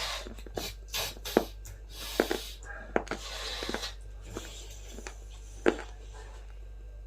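Crunchy food being bitten and chewed close to the microphone: an irregular string of sharp crunches, a few much louder than the rest, with softer crackling chewing in between.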